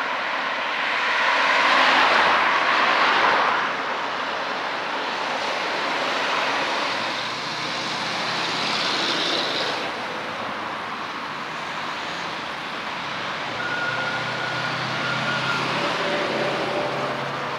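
Town street traffic noise, with a vehicle passing close and loudest about two seconds in, then a steady mix of road noise.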